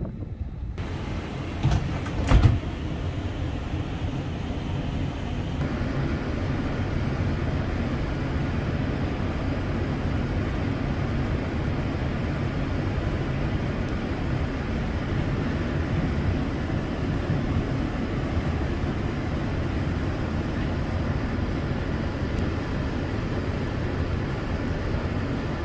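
Steady rumble of an ÖBB regional electric train running along the track, heard from inside the carriage. A couple of loud knocks come about two seconds in.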